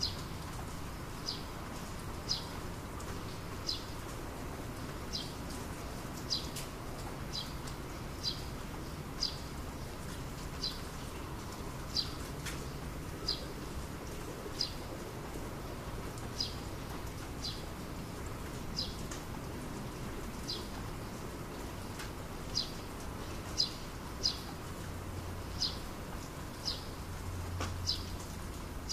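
A small bird repeating a short, high, slightly falling chirp about once a second, over the steady faint hiss of light rain that is easing off. A faint low rumble comes in near the end.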